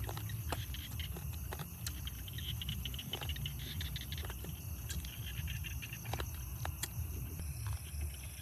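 A person eating a fried chicken leg, with scattered wet clicks and crunches of chewing and lip smacks. Under it is a steady high chirring of night insects.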